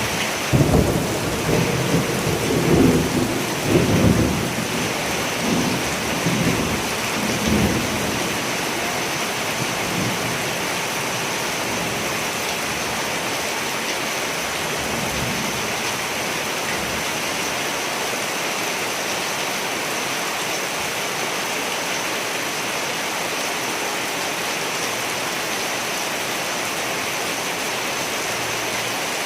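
Steady heavy rain with a roll of thunder rumbling and cracking over the first several seconds, then dying away and leaving only the even hiss of the rain.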